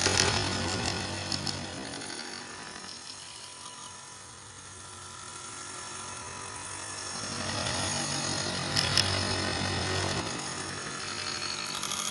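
A woodworking power tool running. Its noise eases off in the middle and builds again over the last few seconds.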